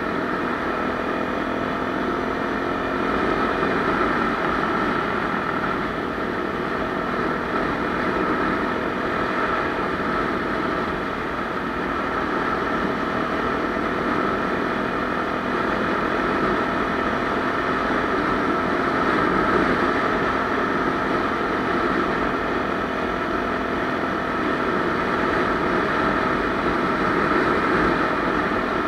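Honda XR250 Tornado's 250 cc single-cylinder four-stroke engine running steadily.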